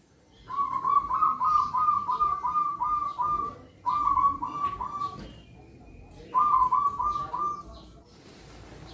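Zebra dove (perkutut) cooing: three phrases of quick, evenly repeated cooing notes, the first the longest, with short pauses between them.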